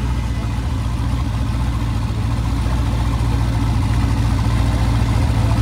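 A modified Corvette's engine idling with a steady, pulsing low rumble, rising slightly in level near the end.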